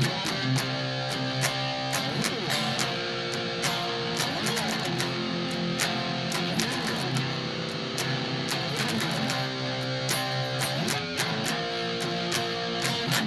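Instrumental guitar passage: strummed guitar chords in a steady rhythm, with no singing.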